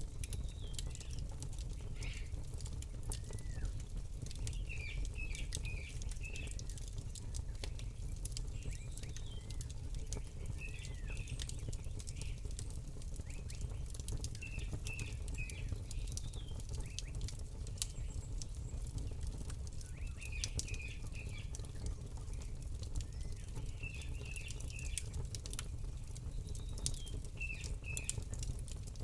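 Campfire crackling with frequent sharp pops over a steady low rumble, while a small bird chirps short phrases every few seconds.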